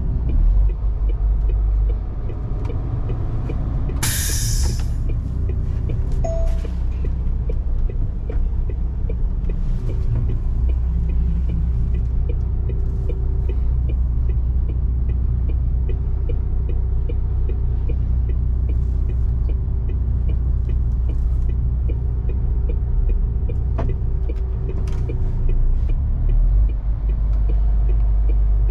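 MAN TGS heavy truck's six-cylinder diesel engine running with a steady low rumble, with a short sharp hiss of air about four seconds in. The engine note shifts near the end.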